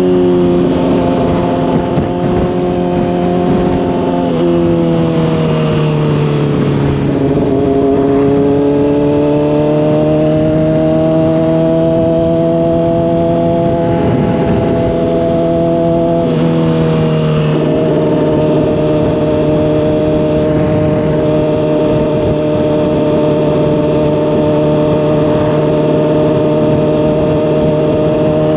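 Honda CBR600RR's inline-four engine through a slip-on exhaust, running at steady cruising revs. The engine note steps down about four seconds in and again around seventeen seconds, with a slow climb in between, like upshifts and gentle acceleration. Wind rushes over the helmet-mounted microphone.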